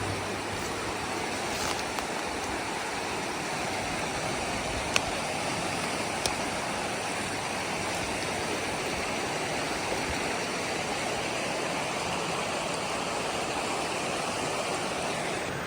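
Steady rush of water from a waterfall, with a couple of brief sharp clicks about five and six seconds in.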